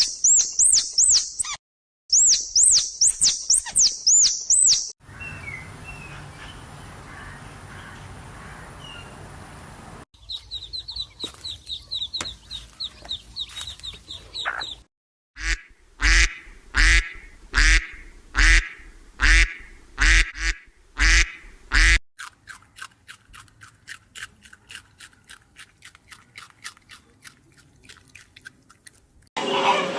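A run of separate bird calls, one clip after another. First come high, quickly repeated chirps, then a few seconds of steady background noise, then more chirping, then loud calls about once a second, and near the end a fast, fainter chatter.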